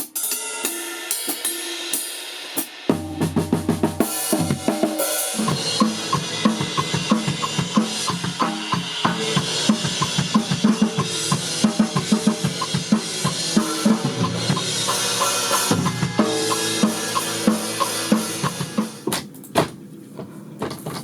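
Rock band music with a full drum kit (snare, bass drum, cymbals) driving a steady beat; a low bass part comes in about three seconds in, and the music thins out near the end.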